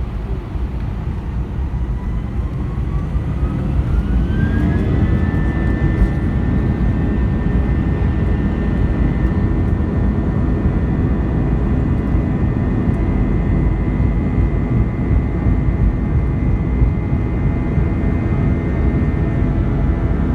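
Airbus A320 jet engines spooling up to takeoff thrust, heard from inside the cabin: a whine climbs in pitch over the first few seconds, then holds steady over a loud, constant rumble.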